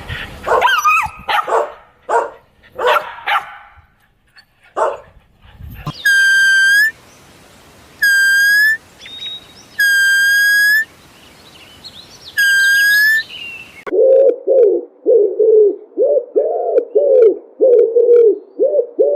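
A dog barking and yipping, then about six seconds in four long, high whistled calls, and from about fourteen seconds a rapid series of short, lower-pitched animal calls. These are separate animal clips played one after another.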